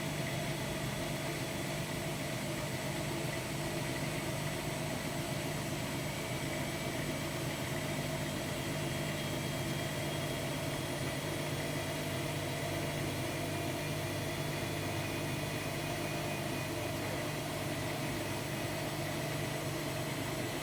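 Hotpoint-Ariston AQD972F washer-dryer running with a steady, even hum.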